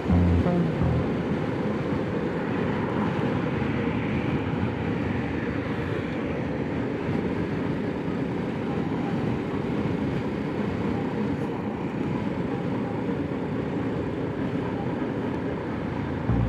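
Onboard sound of a single-cylinder BSA 650 Scrambler motorcycle cruising at highway speed. Its engine is heard under a steady rush of wind noise.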